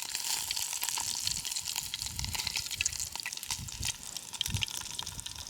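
Pieces of fish frying in hot lard: a steady sizzle full of small crackling pops, with a few soft low thumps.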